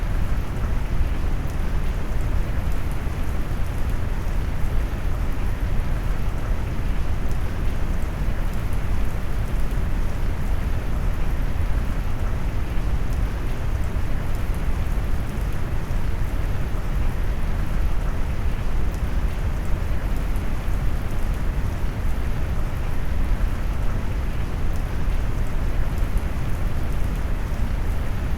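Brown-noise rain mix: a steady, deep rush of rain noise weighted heavily toward the low end, even throughout with no separate drops or thunderclaps standing out.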